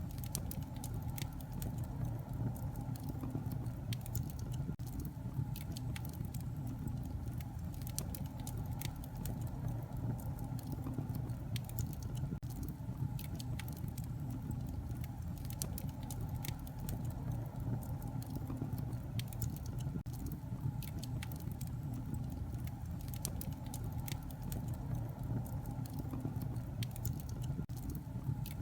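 Wood fire crackling in a fireplace: a steady low rumble of burning with many small, irregular pops and snaps.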